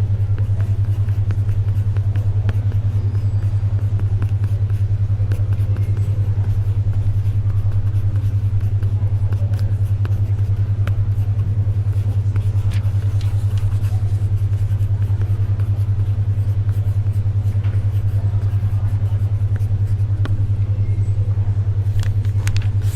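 Steady low tone pulsing rapidly and evenly, a 10.2 Hz alpha brainwave beat, over faint library ambience with scattered small ticks of paper and pencil.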